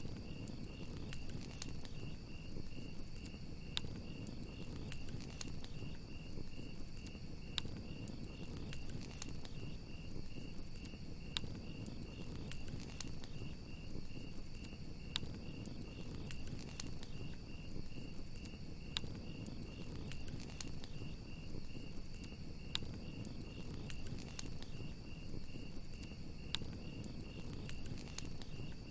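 Crickets chirping in a steady, high, rapidly pulsing trill over a crackling campfire, whose sharp pops come every second or so.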